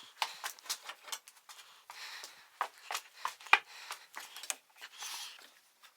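Irregular light clicks and knocks, several a second, of hand tools and small parts being handled during a repair under a car's bonnet.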